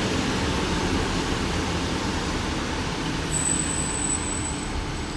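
Class 150 diesel multiple unit running past the platform: a steady rumble of its diesel engines with wheel noise. A thin high whine joins about three seconds in.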